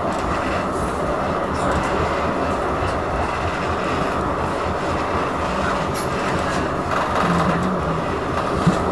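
Blackpool tram running along the track, heard from inside the car: a steady rumble of wheels on rail and running gear, with a brief click near the end.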